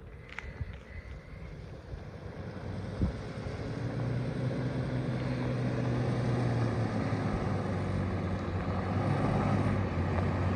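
Pickup truck engine running as it drives, growing louder about four seconds in and then holding steady.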